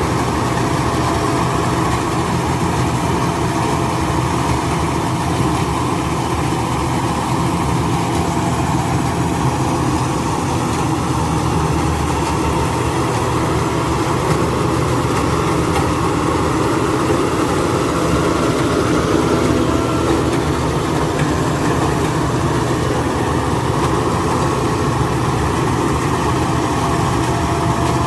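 Rice combine harvester running steadily: a constant engine drone with steady higher machine tones.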